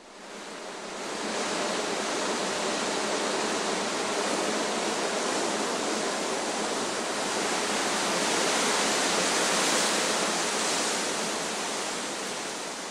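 Steady rushing noise with no distinct events, rising over the first second or two and easing off near the end.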